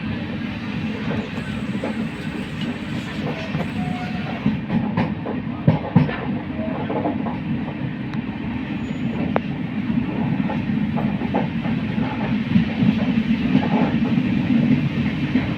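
Moving train running on the rails: a steady low rumble with scattered clicks and knocks from the wheels and carriages.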